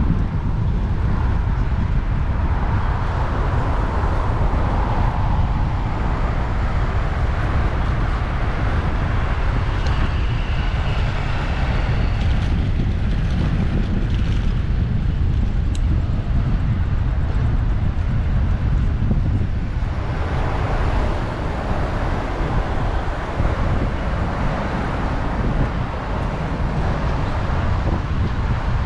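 Wind rushing over a bicycle-mounted action camera's microphone while riding, with city road traffic running alongside.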